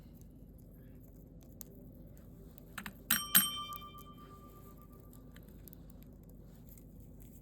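Small metal bell struck twice in quick succession about three seconds in, its clear ring dying away over about two seconds, after a few faint clicks.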